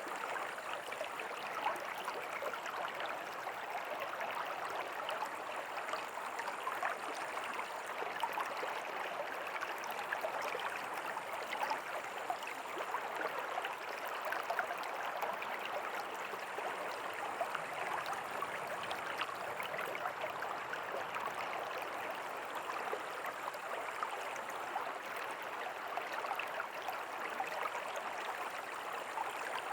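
River water flowing steadily, a continuous rushing and babbling with a fine, crackly texture.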